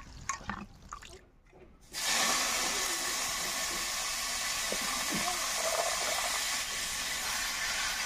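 Chopped leafy greens sizzling in hot oil in a wok: a loud, steady hiss that starts suddenly about two seconds in. Before it, faint clicks from the greens being handled in a steel bowl.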